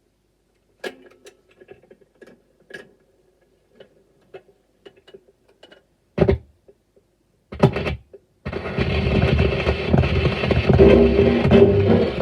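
Gramophone record playing: scattered clicks and crackles of the surface noise before the band comes in, with two louder bumps about six and seven and a half seconds in, then the jazz band starts about eight and a half seconds in.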